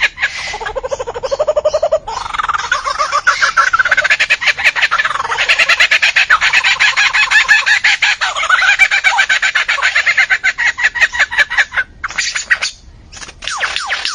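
Birds calling in long runs of rapid, pulsed clucking and squawking notes, with a short break near the end.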